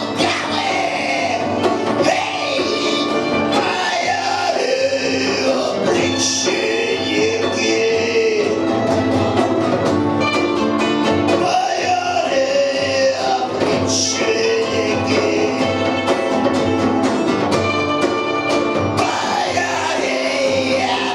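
A punk rock band playing live, with a voice singing over the band.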